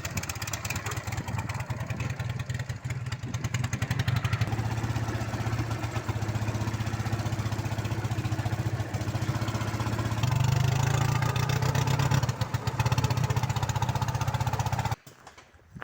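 Ural motorcycle's flat-twin engine running in a homemade tricycle, its note rising a little around ten seconds in, then cutting off abruptly about a second before the end.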